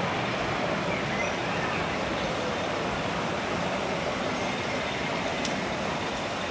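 Disneyland Railroad passenger coaches rolling along the track, a steady noise with no distinct clicks, with faint voices of people nearby.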